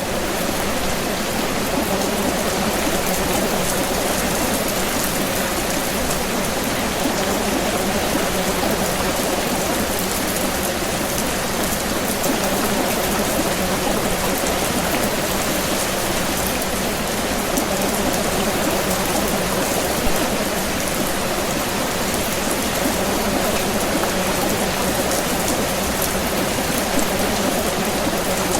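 Steady rain, an even, dense patter of drops that does not change.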